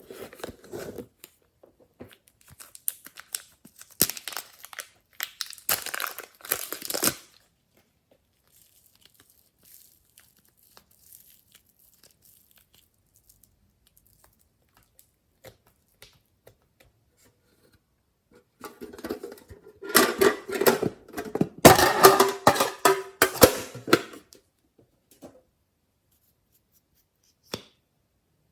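Glossy slime being handled: stretched, pulled apart and pressed, giving sticky crackling and tearing sounds in two bursts with a quiet gap between them, then a single click near the end.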